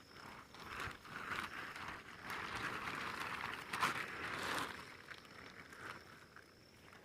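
Rustling, crackling noise that swells through the middle and fades toward the end, with a few sharp clicks, over a steady high insect trill.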